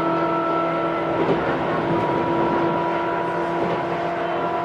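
Tobu 9000 series electric train running: a steady hum of several held tones from the motors and control gear over the rumble of wheels on rail. About a second in one of the higher tones drops out, and a new one sets in about two seconds in.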